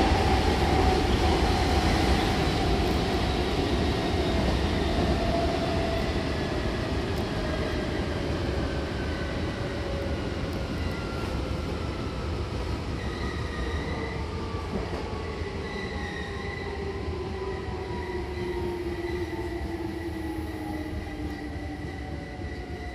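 Interior of a Hankyu Kobe Line electric train slowing into a station. The rumble of wheels on rails runs under a whine from the traction motors that falls steadily in pitch, and the noise gets gradually quieter as the train brakes.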